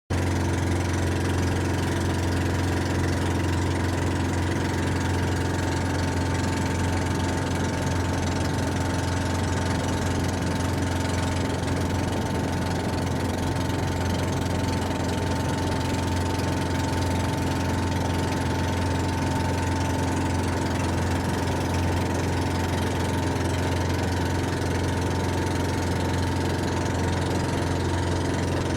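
Engine running steadily at an even speed, a constant low hum with a faint higher whine.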